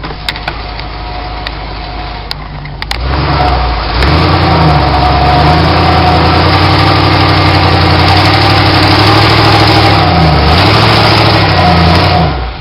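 Lifted 1996 Ford F-150 with headers and a straight-pipe Flowmaster exhaust, idling and then revved hard about three seconds in. It is held loud under load for about nine seconds, pitch wavering up and down, as the truck pulls up a snow pile in four-wheel drive, then drops back near the end.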